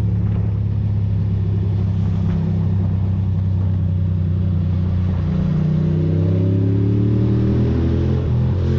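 Ducati Monster's L-twin engine running under way, its pitch climbing steadily from about five seconds in as the bike accelerates, with a brief dip in the engine note near the end.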